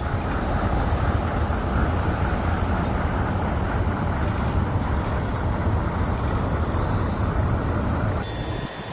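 Steady rumbling outdoor noise with no clear pitch, like wind or distant traffic. Near the end it drops away and a thin, high, steady insect-like trill comes in.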